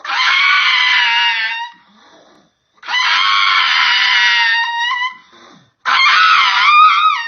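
Three long, high-pitched screams, each about two seconds, with short pauses between; the last one wavers up and down before trailing off.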